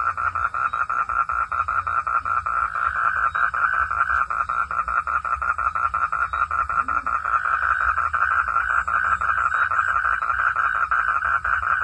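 A dense chorus of frogs calling at night: a continuous, rapid, even pulsing that does not let up.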